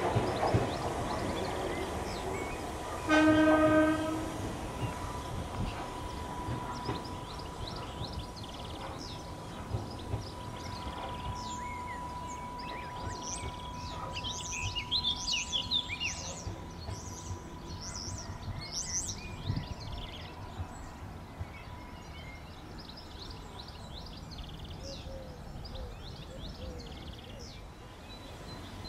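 An Island Line Class 484 electric train gives one short, single-note horn blast about three seconds in, then runs on with a steady high whine. High chirps are heard in the middle.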